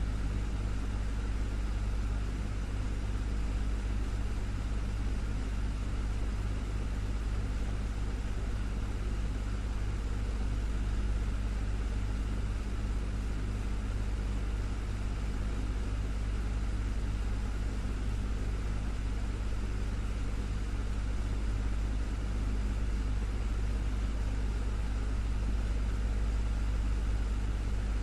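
Desktop fan running steadily: a constant low motor hum under an even rush of moving air.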